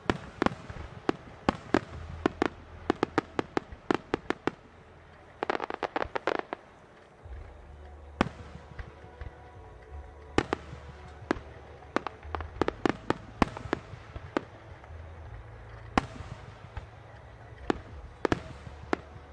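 Aerial firework shells bursting in quick volleys of sharp bangs, with a dense rapid run of reports about five to six seconds in and scattered bursts after a short lull.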